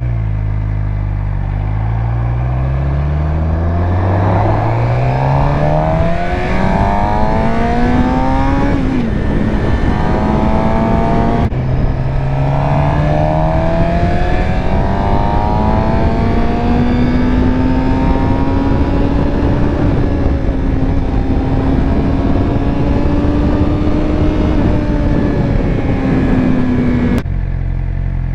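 2019 Suzuki GSX-R600's inline-four engine under way, revs climbing hard through the gears with gear changes about nine and eleven seconds in, then pulling slowly higher at steady speed, with wind rushing past. The revs drop away suddenly near the end as the throttle is closed.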